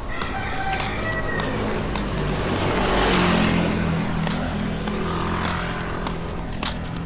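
A motor vehicle passes by: its engine hum and road noise swell to a peak about three seconds in, then fade.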